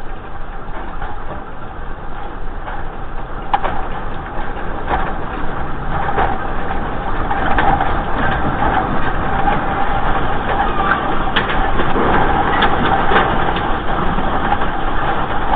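Deep, continuous earthquake rumble with objects rattling and knocking, the clatter growing denser and louder as the shaking goes on.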